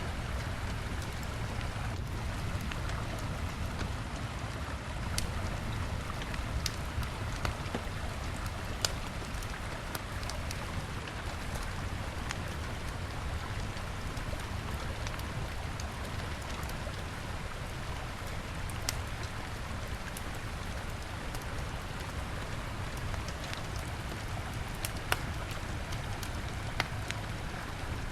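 Wood bonfire crackling, with scattered sharp pops every few seconds, over the steady rushing of a river.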